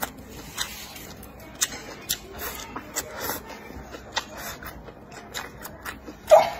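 Close-up eating sounds: chewing and wet mouth clicks as a man eats stir-fried bracken and braised meat, with scattered sharp clicks throughout and one louder, brief mouth sound near the end.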